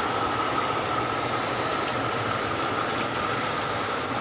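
Water spraying steadily from a 324-nozzle shower head into a laboratory sink: an even hiss of water with a thin steady high tone running through it.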